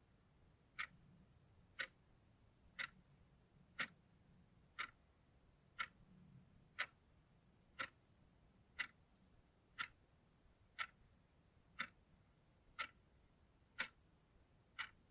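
Clock ticking steadily, one short, sharp tick every second, each tick alike, over a faint hiss.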